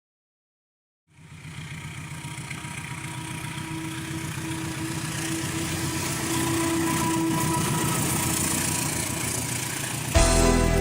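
Diesel locomotive engine running steadily, fading in after about a second of silence and growing louder. Music comes in near the end.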